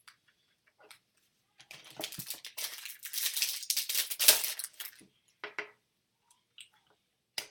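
Crinkling and tearing of a foil trading-card pack wrapper being ripped open and handled, for about three seconds, followed by a few light ticks and a sharp click near the end.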